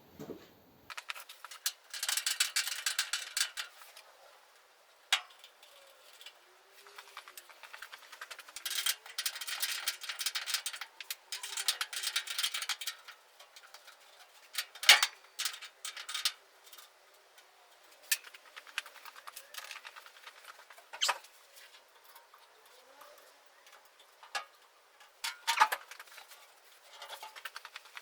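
Runs of rapid ratchet clicking, a couple of seconds each, mixed with metal rattling, then several single sharp metallic clicks and clinks further apart.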